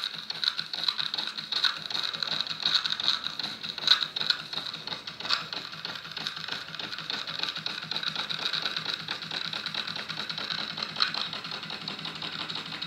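Homemade solid-brass oscillating-valve model steam engine running under steam, giving a fast, even clatter of exhaust beats.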